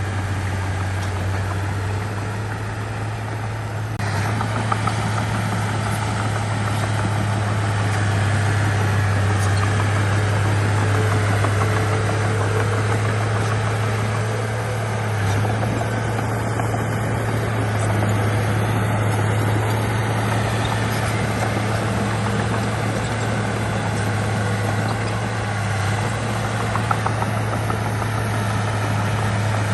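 Heavy diesel engine of earthmoving machinery running steadily with a strong low drone, growing a little louder about four seconds in.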